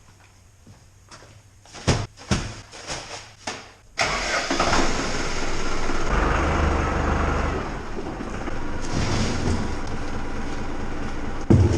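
A few clicks and knocks, then about four seconds in an engine starts abruptly and keeps running with a steady low hum, likely a diesel tractor being started.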